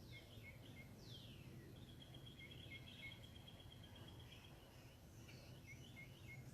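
Faint birdsong over a low steady hum: a whistle sliding downward about a second in, a long even trill, and short repeated chirps.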